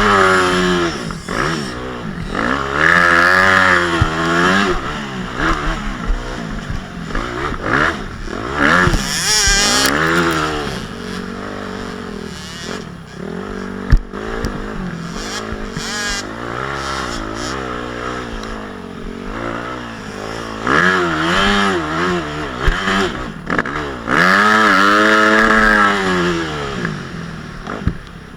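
Motocross bike engine revving hard and easing off again and again, its pitch climbing and dropping through the gears, with a sharp knock about halfway through.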